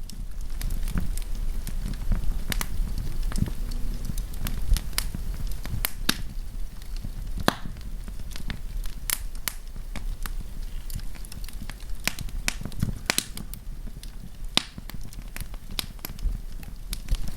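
Wood fire crackling and popping: irregular sharp snaps scattered throughout over a steady low rumble of flames.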